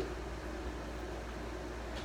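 Steady background hiss with a constant low hum: room tone with no distinct event.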